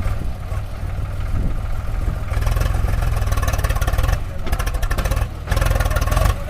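Heavy diesel engine running, with a fast steady firing pulse, revved up in three surges from about two seconds in, dropping back briefly between them.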